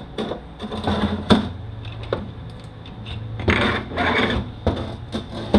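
Metal parts of a Mercedes 722.9 automatic transmission being handled on a workbench during disassembly: a run of clinks and knocks, with a couple of longer scraping noises past the middle.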